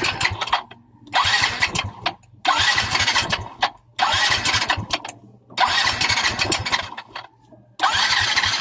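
Yamaha Mio i 125 scooter engine being cranked by its electric starter in about six short bursts of roughly a second each, with brief pauses between. The engine does not settle into running.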